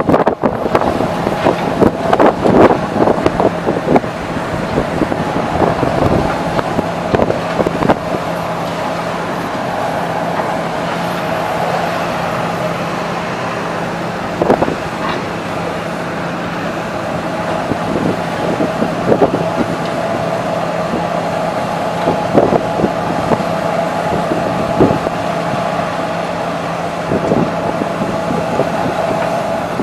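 Demolition machinery: a heavy diesel engine running steadily, with scattered knocks and crunches at irregular intervals.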